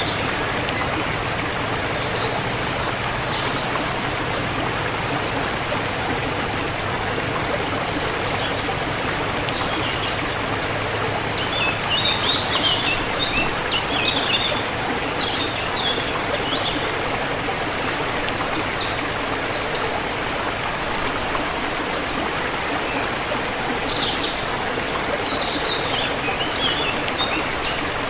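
Forest river water flowing steadily, with small birds chirping now and then over it, busiest in two spells in the middle and near the end.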